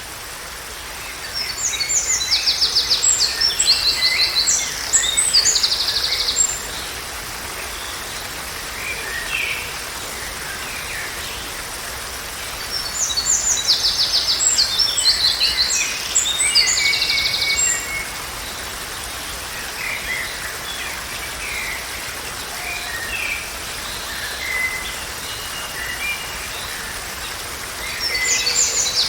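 A songbird singing in bouts of rapid, high repeated notes, two long phrases of about five seconds each, with softer scattered calls between them and another phrase starting near the end. A steady rushing hiss runs under it throughout.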